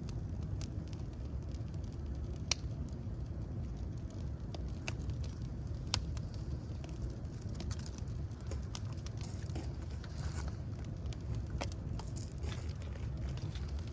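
Fire burning, a steady low rumble with many small crackles and a couple of sharper pops, about two and a half and six seconds in.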